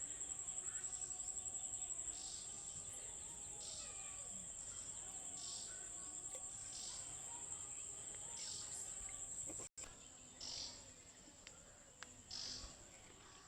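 Insects calling: a steady, high-pitched trill that pulses quickly, with a softer raspy call repeating every second or so and a brief dropout about two-thirds of the way through.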